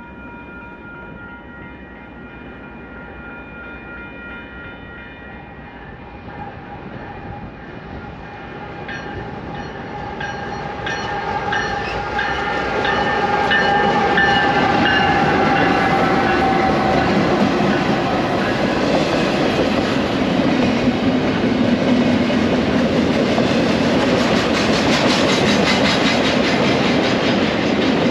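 Westbound Union Pacific double-stack container train with diesel locomotives approaching and passing close by, a horn chord sounding in the distance near the start. The sound swells as the locomotives come past, about halfway through. It then settles into a steady, loud rumble and clickety-clack of the stack cars' wheels on the rails.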